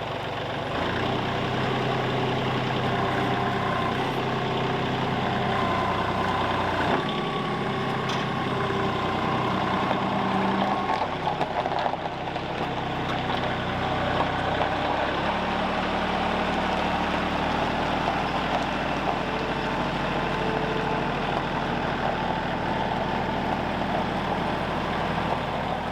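An engine running steadily under load, its pitch shifting a few times.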